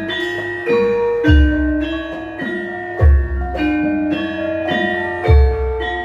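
Javanese gamelan playing a gending: bronze metallophones strike a steady melody of ringing notes, with three deep gong strokes about two seconds apart.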